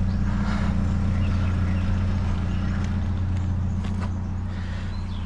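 A vehicle engine idling steadily, with a few faint knocks partway through.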